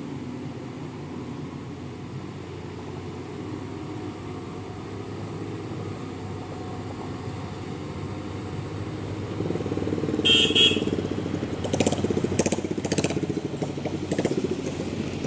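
A heavy truck's engine runs steadily, then grows louder about nine seconds in. A brief high-pitched tone comes at about ten seconds, followed by several sharp knocks or clatters.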